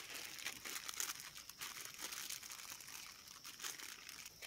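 Chopped onion and chilli frying in hot oil in a pan, a steady sizzle dotted with many small irregular crackles.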